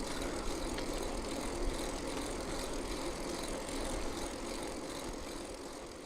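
Steady rushing wind and rolling noise from riding a bicycle, fading out near the end.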